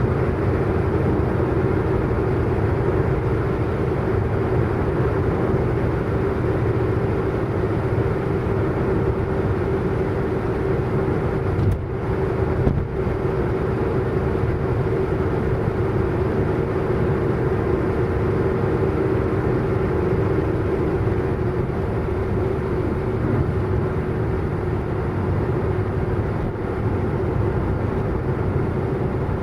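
A car driving fast at a steady speed: continuous engine and road noise with a steady hum that holds one pitch throughout, with two brief dips about twelve and thirteen seconds in.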